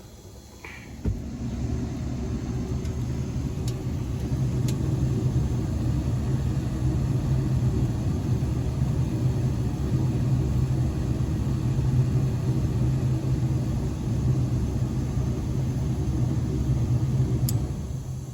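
Old GE gas furnace running with its blower on: a steady rumble and hum that starts with a click about a second in and dies down near the end.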